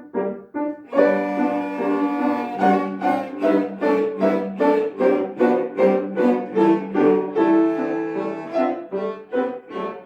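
Three cellos playing with piano accompaniment. It opens with short detached notes, then from about a second in a fuller texture follows, a held low note under quick repeated notes at about three a second.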